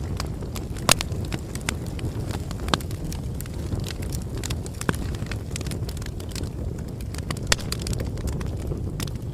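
Bonfire burning: a steady low rumble with scattered sharp crackles and pops, the loudest about a second in and again near the end.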